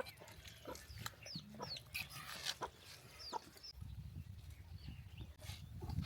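Chickens clucking, with short high chirps and scattered clicks.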